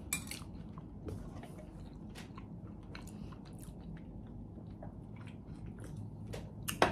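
Close-miked chewing and biting of food, with many short wet mouth clicks and smacks throughout and one sharper click near the end.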